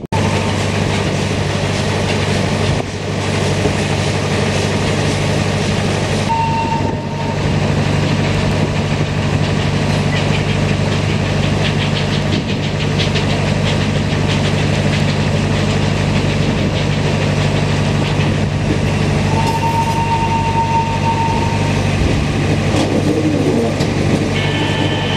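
Slow-moving train heard from an open coach doorway: a steady low engine hum over wind and rolling noise. Two thin high tones sound, a short one about six seconds in and a longer one of about two seconds near the twentieth second.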